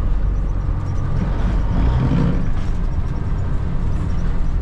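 Semi truck running down the road, its diesel engine a steady low drone, with a brief louder swell of rushing sound about two seconds in.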